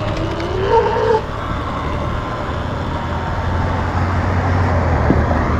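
A motor vehicle running: a steady low hum under an even wash of road noise, with a faint tone gliding slowly downward.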